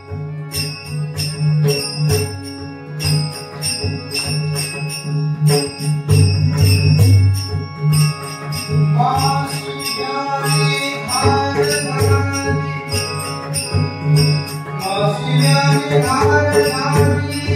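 Varkari bhajan music: small hand cymbals (taal) keep a steady jingling beat over drum strokes and a sustained harmonium drone. About halfway through, a voice comes in singing a melodic line.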